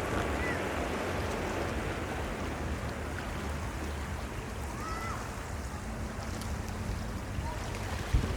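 Steady rushing of sea surf and wind, with a few faint short whistles and a single dull firework boom near the end.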